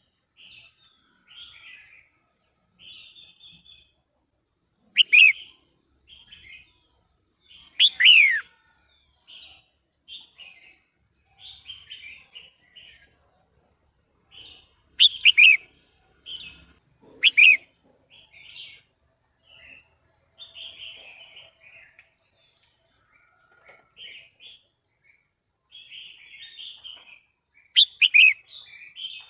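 Female red-whiskered bulbul calling: a run of short chirps, with a handful of louder, sharp calls that drop in pitch scattered through.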